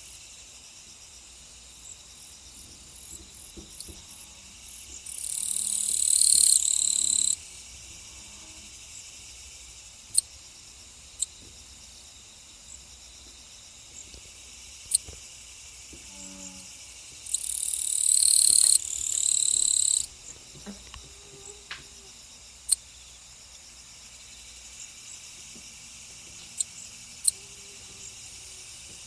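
Insects chirring steadily and high-pitched. Twice a louder buzz swells up over a couple of seconds and cuts off suddenly, with a few sharp clicks scattered between.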